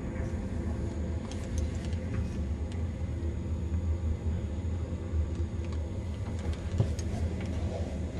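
Steady low rumble of a passenger train on the move, with scattered light clicks and rattles over it.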